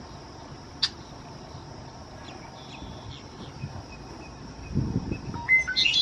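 Red-winged blackbird singing near the end, a short phrase of stepped notes climbing into a higher buzzy part, over a steady high hiss. A sharp click a little under a second in, faint high call notes in the middle, and a low rumble just before the song.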